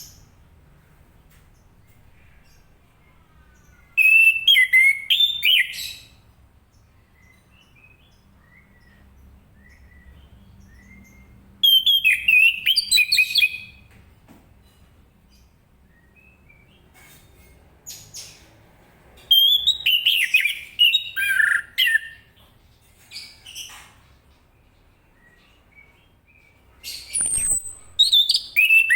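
Chestnut-capped thrush (anis kembang) singing: four bursts of rapid, varied song, each about two seconds long and several seconds apart, with a few faint single notes in the gaps.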